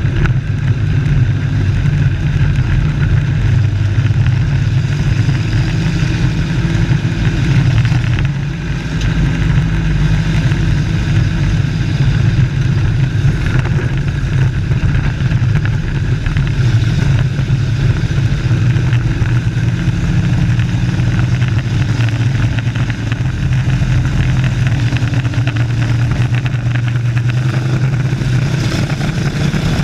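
Race trucks' engines running on an oval track, a loud steady drone that dips briefly about a third of the way in.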